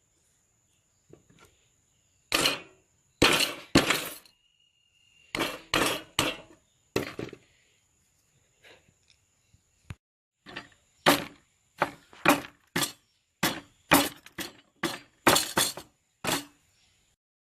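A series of sharp cracks and knocks from hard objects, in irregular clusters of two to five, some with a short ring after them.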